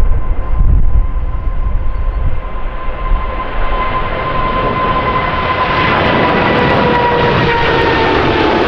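Jet airliner engines growing louder as the aircraft approaches, a steady whine that slowly drops in pitch over a rising rush of noise. Wind buffets the microphone with a low rumble at the start.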